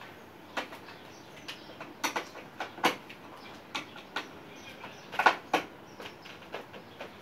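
Irregular clicks and knocks of parts being handled on a split air conditioner during cleaning, with the loudest cluster about five seconds in.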